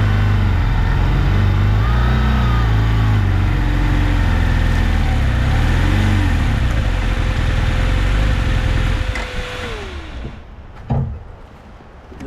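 Motorcycle engine running under riding load, its revs stepping up and down with wind rush on the microphone; about ten seconds in the engine note winds down and the wind noise stops, followed by two short knocks.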